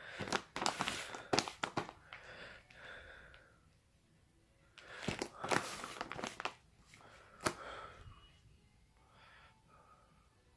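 Packaging being handled and crinkled as a box of fireworks is unpacked by hand, with sharp clicks and knocks, in two bouts with a pause between.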